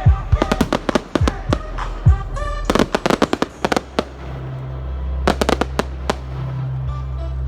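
Fireworks bursting in rapid volleys of sharp bangs and crackles over a music soundtrack. The bangs thin out about four seconds in, leaving the music with a steady bass, then a quick cluster of bangs follows a little after five seconds.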